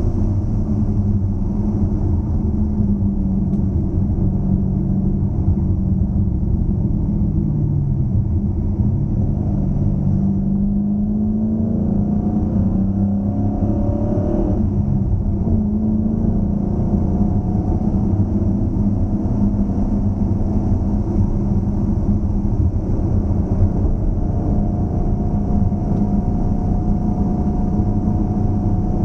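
2013 Dodge Challenger SRT8's 6.4-litre HEMI V8 running steadily on the road. Its pitch drops about eight seconds in, climbs again over the next few seconds, then holds steady.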